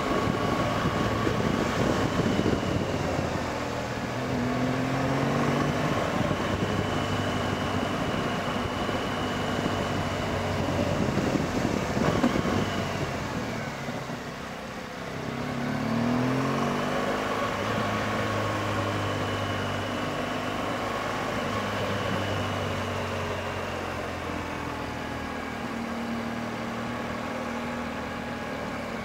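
BMW R1200GS Adventure's boxer-twin engine running on the move. Its note climbs in pitch twice, about four seconds in and again about halfway through.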